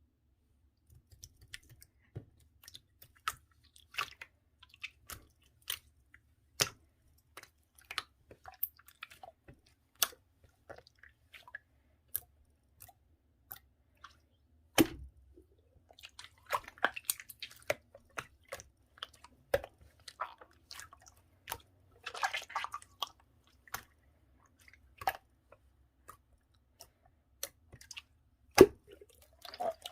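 Clear slime being handled, with sharp sticky clicks and pops at irregular intervals. There are denser bursts of crackling squelch partway through.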